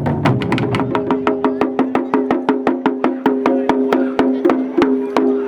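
Japanese taiko drums (wadaiko) playing a fast rhythm: quick sharp strikes, several a second, over steady held tones. A deep drum rumble dies away about two seconds in, leaving the sharp clicking strikes.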